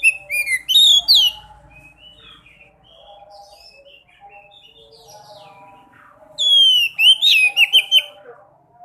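Sekoci cage birds calling: loud bursts of high, sharp, falling chirps at the start and again from about six seconds in, over a quieter, continuous warbling chatter.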